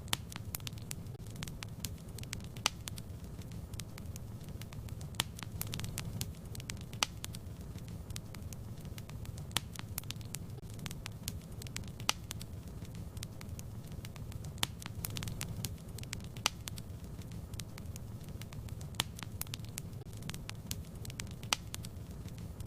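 Wood fire in a fireplace burning with a steady low rumble and frequent irregular crackles, louder pops every few seconds.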